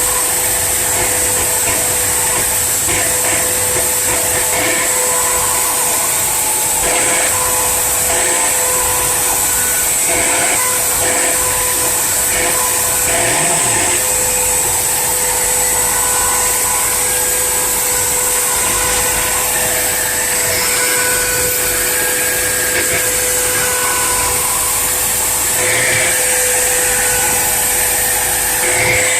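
A homemade CNC engraving machine's high-speed spindle cutting letters into granite, running at a steady pitch: an even whine over a high hiss.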